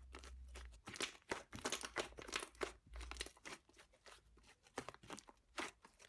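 Slime being pressed and stretched by hand, giving many small irregular crackling clicks and pops.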